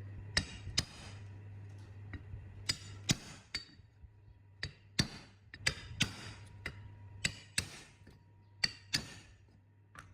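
Sharp metal-on-metal taps, mostly in pairs about a third of a second apart, each ringing briefly; about fifteen in all, over a low steady hum.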